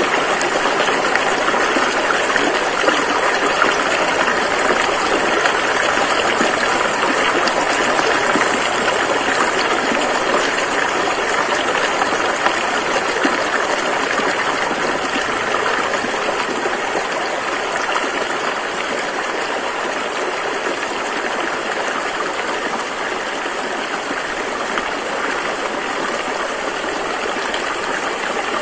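River water rushing over rapids: a steady, dense rushing noise.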